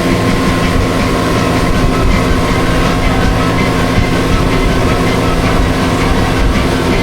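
Honda four-stroke outboard motor running steadily under way, its hum even and unchanging in pitch.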